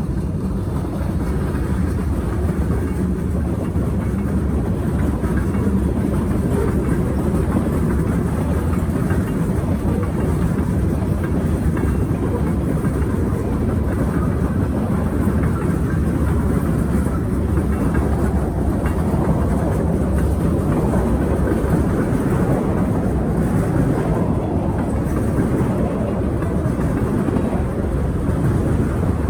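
Norfolk Southern freight train rolling steadily past, a continuous rumble of wheels on rail.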